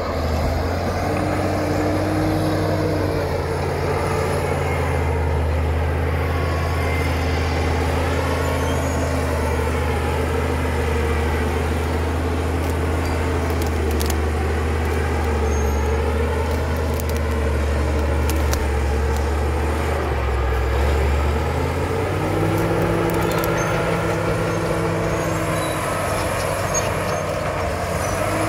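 Caterpillar D7 crawler dozer's diesel engine running under load. It holds a lower, lugging note for most of the stretch, then picks up in pitch about three quarters of the way through.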